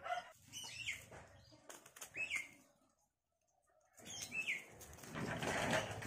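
Short chirping bird calls, each a quick falling note, heard three times. There is a gap of near silence in the middle, and the last second or so is filled with an even rushing background noise.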